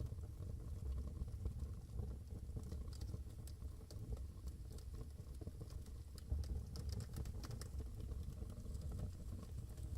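Wood fire in a fireplace crackling and popping, with irregular small snaps over a steady low rumble; the snaps come thickest in the middle of the stretch.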